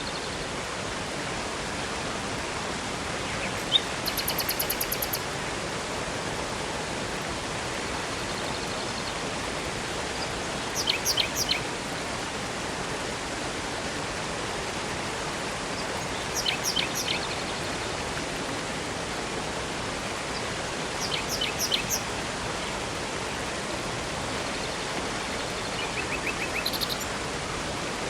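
Steady rushing water of a river and waterfall, with small birds breaking in every five seconds or so with short runs of high, quick chirps and trills.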